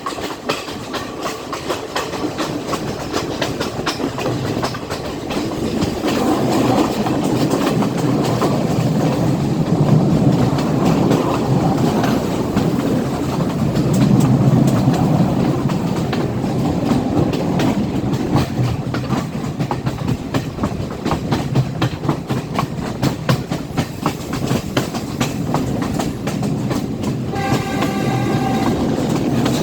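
Class S14 diesel multiple unit running along the line: a steady rumble of the train with rapid clicks of wheels over the rail joints, growing louder in the middle. Near the end a train horn sounds once for about a second and a half.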